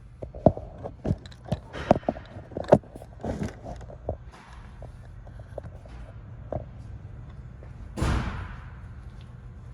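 A run of sharp clicks and knocks, then a short noisy burst about eight seconds in that fades quickly, over a low steady hum.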